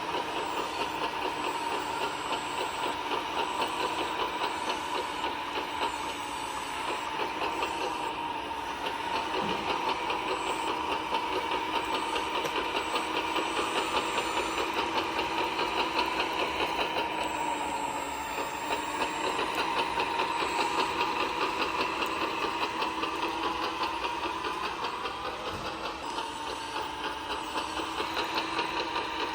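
A radio-controlled model truck running, a steady mechanical whine with a fast rhythmic pulse; the pitch bends slightly near the end.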